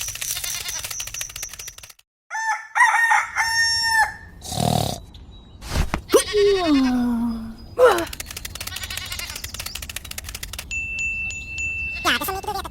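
A sequence of farm-animal calls, one of them a crowing call, cut between sudden knocks and clicks. It opens with rapid clicking and has a long falling call a little after the middle.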